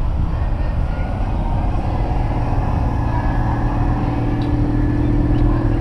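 Classic car engines running as cars crawl past at low speed; one engine's steady hum grows louder from about two seconds in.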